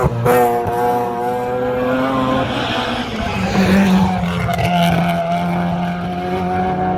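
Mazda RX3's rotary engine running hard at high revs, with a sudden change in note right at the start and a drop in pitch about two and a half seconds in, then holding a steady note.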